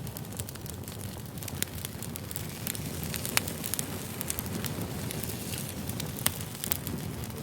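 Wood fire burning with a steady low rush and irregular crackles and pops, a few pops sharper than the rest.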